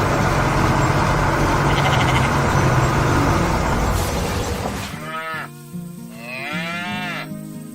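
Cartoon soundtrack: a long, loud rumbling noise, then two drawn-out animal-like calls, the first falling in pitch and the second rising and falling, over steady background music.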